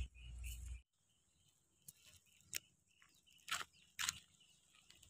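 A low rumble cuts off abruptly just under a second in. What follows is faint background with about four brief, sharp clicks or snaps, spaced out unevenly.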